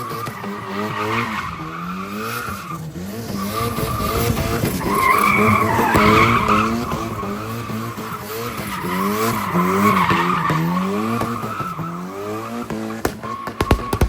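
Car engine revving up and down over and over while its tyres squeal on the pavement, loudest around the middle. A few sharp clicks near the end.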